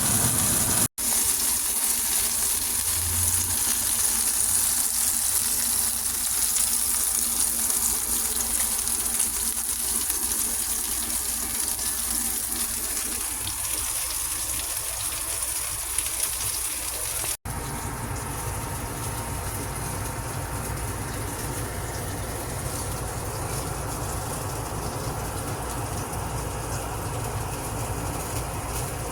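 Steady hiss of food cooking, fish frying and vegetables steaming. It breaks off abruptly twice, about a second in and a little past halfway. After the second break a low rumble runs under the hiss.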